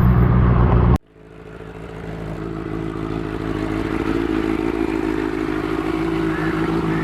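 Motorcycle engine running loud, then cut off abruptly about a second in. A steadier, quieter engine note replaces it and fades up, then runs evenly.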